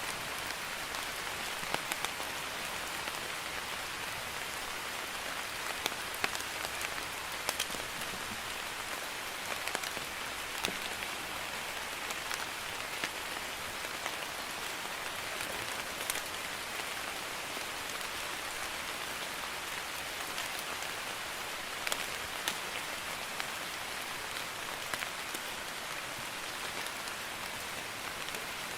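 Light rain (drizzle) falling steadily, an even hiss with scattered individual drops ticking sharply on a hard surface at irregular intervals.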